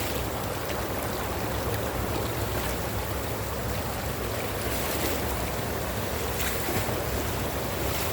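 Steady rushing noise with a low rumble of wind buffeting the microphone.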